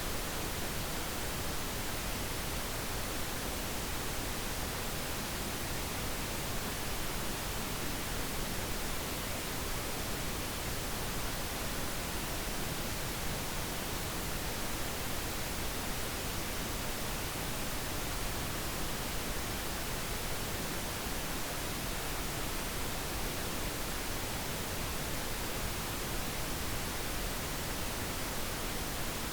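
Steady pink noise: an even, unchanging hiss with no breaks or changes.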